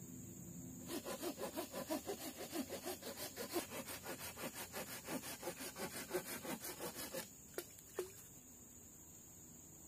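Rapid back-and-forth rasping strokes of a blade on wood, about five a second for some six seconds, like sawing or scraping. The strokes stop and two sharp knocks follow.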